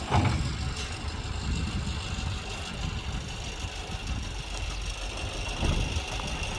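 Heavy construction machinery's diesel engine running steadily at a low rumble, with a thump right at the start.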